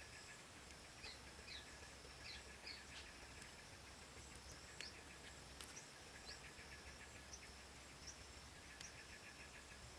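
Faint outdoor ambience of small birds chirping in short, repeated calls, over a steady high insect drone.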